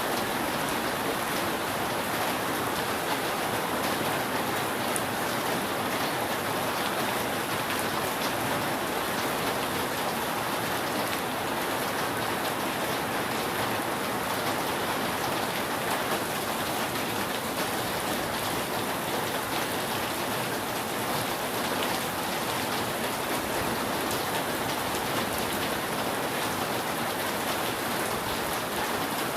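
Steady rain falling on a roof: an even hiss with fine scattered drop ticks.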